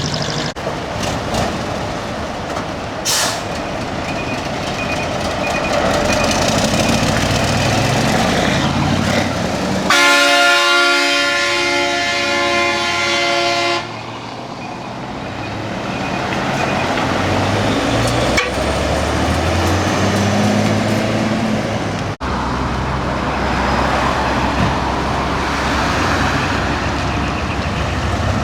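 Decorated heavy trucks running and driving past, with diesel engine and road noise throughout. About ten seconds in, a truck horn sounds one long blast of about four seconds, a steady chord of tones that stops suddenly.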